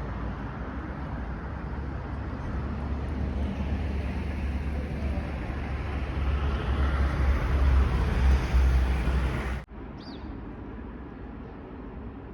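Train running: a steady low rumble and rushing noise that swells toward the end, then cuts off suddenly about ten seconds in, leaving a much quieter background with one brief high chirp.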